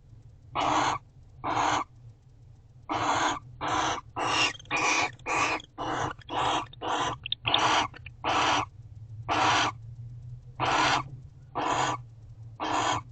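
Barn owl giving a series of short, harsh hissing calls, about sixteen in a row, coming faster in the middle and spacing out toward the end; the defensive hiss of an owl guarding its nest box. A steady low electrical hum runs underneath.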